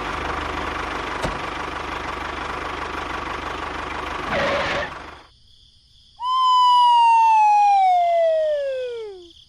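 Steady mechanical whirring noise that stops about five seconds in, then a loud whistle-like tone that falls steadily in pitch for about three seconds.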